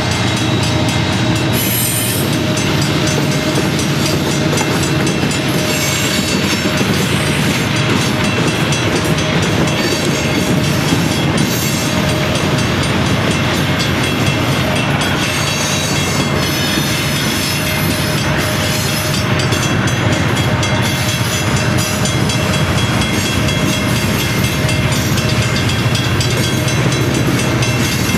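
Union Pacific freight train's boxcars and lumber cars rolling past, steady and loud: steel wheels running on the rails with the cars rattling.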